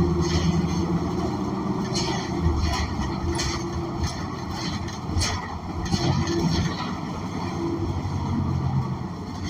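Inside the cabin of a New Flyer XN40 bus under way: its Cummins Westport ISL G natural-gas engine and drivetrain running, the engine note dropping away and returning a few times. Short clicks and rattles are scattered through it.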